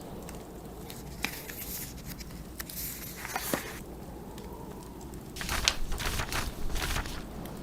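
Wood fire crackling in a fireplace over the low, steady rumble of snowstorm wind, with short papery rustles of book pages being turned, the loudest run of them about five and a half to seven seconds in.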